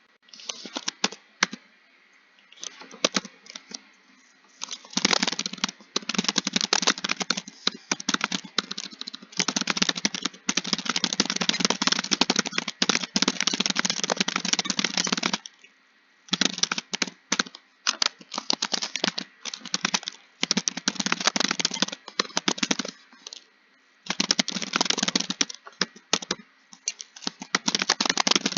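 Computer keyboard typing in fast, continuous runs of keystrokes, broken by short pauses every few seconds.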